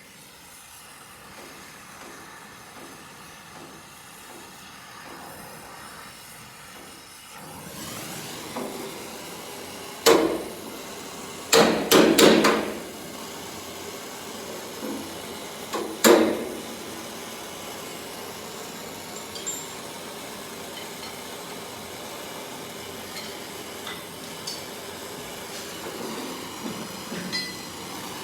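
Gas torch hissing steadily as it heats the steel panel, building up over the first several seconds. Sharp hammer blows on the sheet metal ring out about ten seconds in, three quickly together around twelve seconds, and one more near sixteen seconds, with lighter taps later, as a small dent is worked out of the heated panel.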